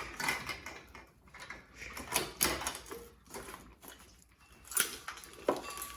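Irregular rustling, scraping and short knocks of an engine wiring harness being worked loose and pulled out of a car's engine bay.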